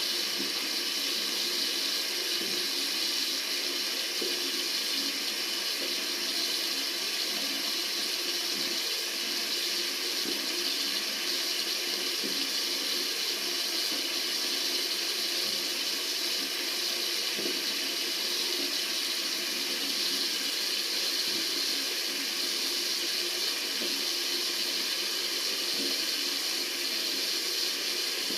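Tap water running steadily from a faucet into a sink, an even hiss.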